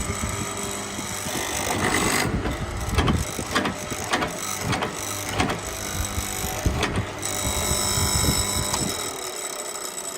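A machine running steadily, with a run of sharp mechanical clicks or knocks about two a second through the middle.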